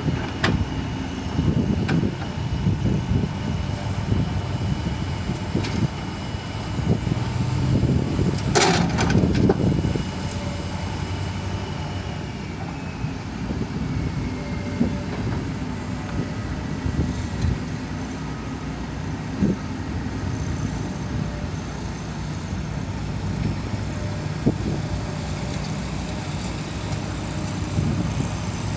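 Excavator's diesel engine running steadily under work, with scattered metal clanks and knocks and a louder clatter about eight to nine seconds in. A thin high whine runs through the first half and drops in pitch around thirteen seconds in.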